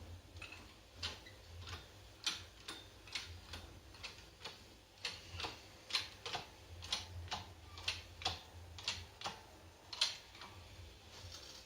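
A run of light, sharp clicks and taps, unevenly spaced at about two or three a second, over a faint low hum.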